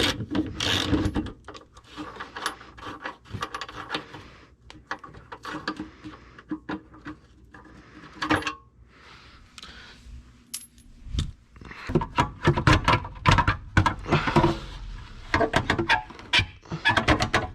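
Irregular light metallic clinks, taps and knocks of tools and metal parts being handled, getting much busier about twelve seconds in.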